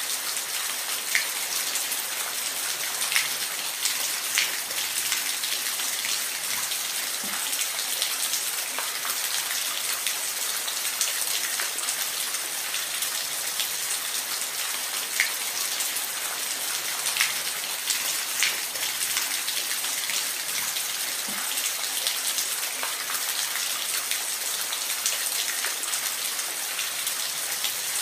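Steady rain falling, a dense hiss with individual drops ticking sharply every second or two.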